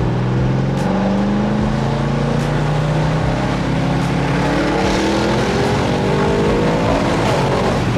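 Audi RS6's twin-turbo V8 with catless downpipes and a Stage 2 tune under hard acceleration, the engine note climbing in pitch, dropping back once at an upshift a few seconds in, then climbing again.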